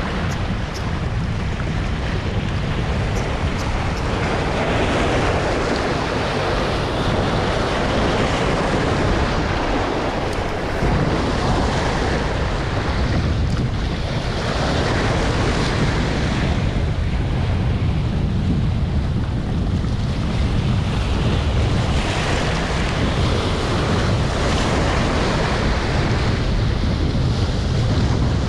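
Strong wind buffeting the microphone over sea waves washing against the shore: a steady rush with a heavy low rumble that swells and eases every few seconds.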